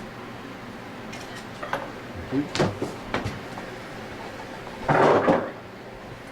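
Compressor parts and tools being handled on a workbench: a few knocks and clicks, then a louder half-second scrape or rattle about five seconds in.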